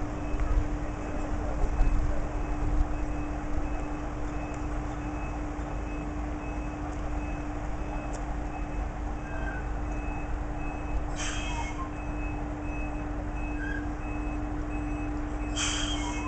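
Heavy truck's engine running low with a reversing alarm beeping steadily over it. Two short hisses come in the second half.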